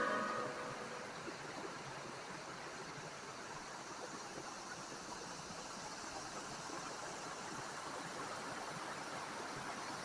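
Steady rush of water, as from a waterfall or fast stream.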